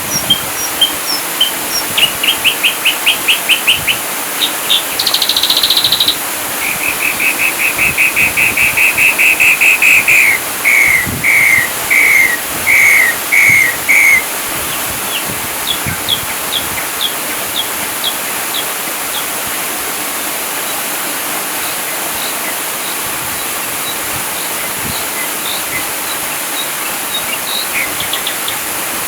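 Ashy drongo singing in rapid-fire phrases: quick trilled runs of sharp notes, a loud fast run about a third of the way in, then five separate downslurred notes. After that come fainter scattered chirps, all over a steady hiss.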